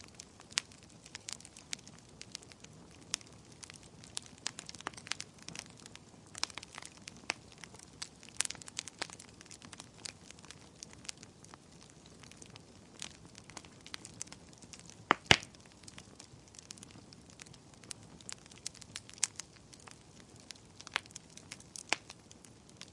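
Wood fire burning: irregular sharp crackles and pops over a soft hiss, with one louder pop about fifteen seconds in.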